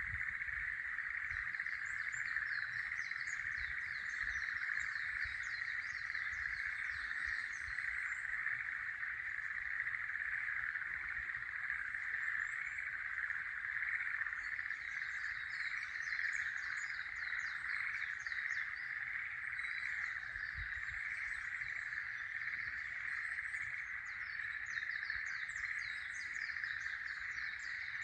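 A dense, unbroken chorus of frogs calling, with songbirds singing in bouts over it from time to time, the birds fainter than the frogs.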